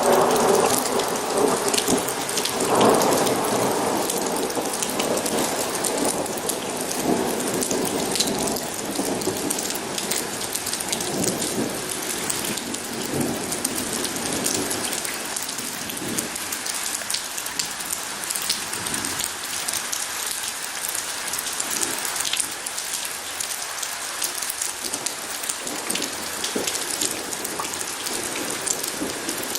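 Steady rain falling, with fine drop patter throughout, and a thunder rumble in the first few seconds, swelling again about three seconds in and fading away.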